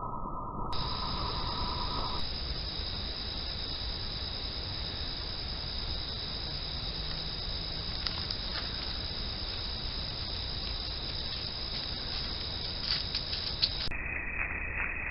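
Outdoor ambience picked up by a trail camera's microphone: a steady high-pitched drone over hiss and low rumble, with scattered faint clicks in the second half. The pitch and brightness jump abruptly twice, where one camera clip cuts to the next.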